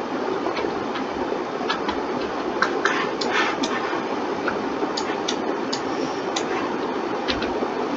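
Irregular clicks of a computer mouse and keyboard, sometimes several in quick succession, over a steady background hiss.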